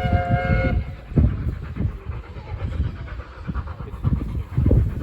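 A locomotive's multi-note whistle ends its second blast under a second in. It is followed by heavy, uneven exhaust beats as the locomotive works past.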